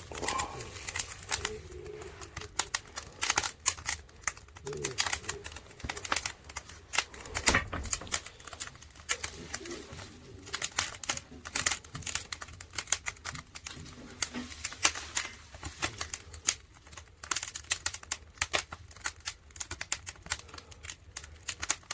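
Wood fire crackling, with irregular sharp pops and snaps from burning resinous pine kindling.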